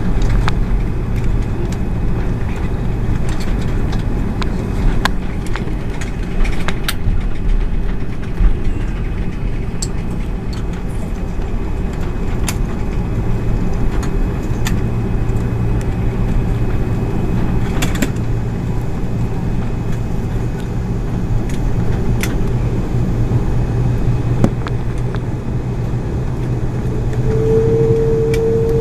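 Airbus A330 cabin during takeoff: steady engine and airflow noise with a deep hum and rumble, and scattered clicks and rattles from the cabin fittings. A steady mid-pitched tone joins near the end.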